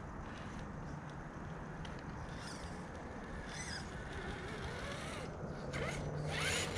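Electric motor and geared drivetrain of an Axial SCX10 III RC crawler whining faintly at crawl speed over rocks, with a few short creaks and squeaks.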